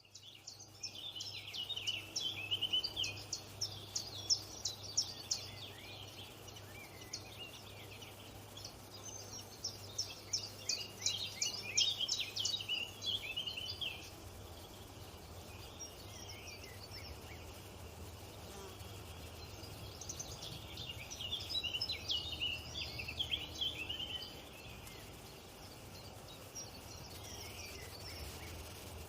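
Small wild birds chirping in quick bouts of short high notes, busiest through the first half and again about twenty seconds in, over a low steady hum.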